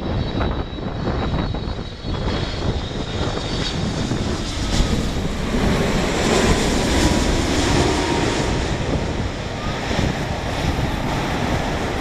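Boeing 787-8 jet airliner on landing approach, its engine noise swelling to a peak about halfway through and then easing slightly.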